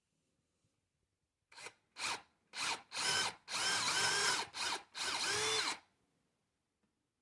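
Power drill running in a series of bursts, a few short triggers and then longer runs, its pitch sagging and recovering as the bit cuts into a basswood handle.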